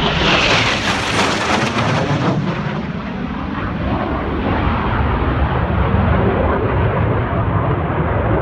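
Military fast jet making a low-level flypast. A loud roar with a high hiss peaks in the first second or two, then the hiss fades and a steady low rumble carries on as the jet moves away.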